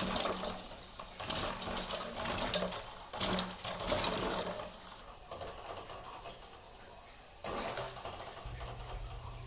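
Water running and splashing in uneven gushes, with an abrupt change in the sound about seven and a half seconds in.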